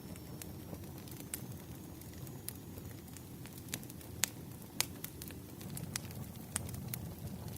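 Wood fire crackling: irregular sharp pops and snaps over a low steady rumble, with the two loudest pops a little past the middle.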